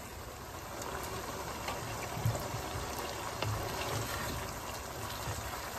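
Liver pieces sizzling and bubbling in masala in a nonstick frying pan as they are fried down (bhuna), stirred with a spatula that gives a few soft knocks and scrapes against the pan.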